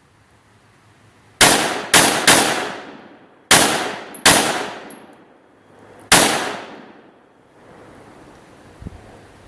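Six gunshots in an uneven string: three in quick succession, then two more, then a last one, each followed by a fading echo.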